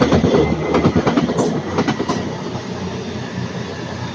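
A passing train's wheels clattering over rail joints, the clatter fading out after about two seconds and leaving a quieter rumble as the train moves away.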